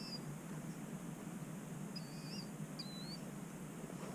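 A small bird's brief high chirps, a couple of short wavering whistles, over a steady outdoor background hiss.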